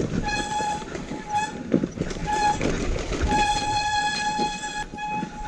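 Dirt bike brakes squealing: a high, steady squeal that comes and goes in about five spells. The longest spell lasts about a second and a half, past the middle. Rough low engine and tyre noise runs underneath.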